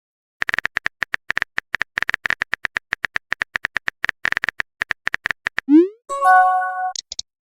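Rapid, irregular keyboard-typing clicks of a phone texting sound effect for about five seconds. They are followed by a short rising whoosh like a message being sent, then a brief chime of several steady tones and two tiny clicks near the end.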